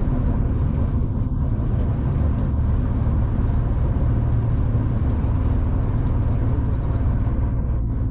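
V/Line passenger train running, a steady low rumble.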